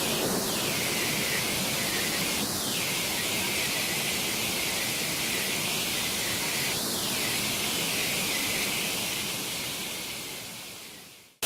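Steady rushing of a multi-tiered waterfall's falling water, fading out near the end.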